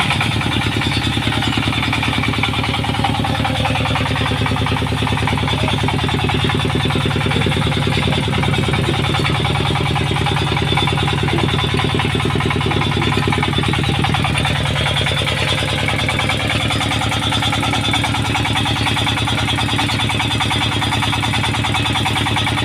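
Engine running steadily at a constant speed, with a fast, even firing beat.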